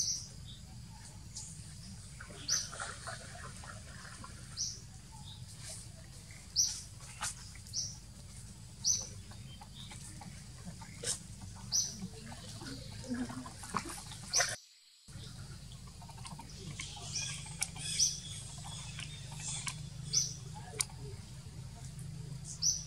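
A small bird chirping: short, high single chirps repeating every second or two over a low steady hum, with a brief dropout about two-thirds of the way through.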